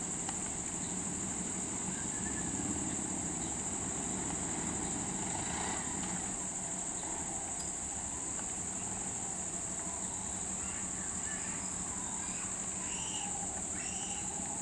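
Steady high-pitched insect chorus over a low rumble, with a few faint bird-like chirps in the second half.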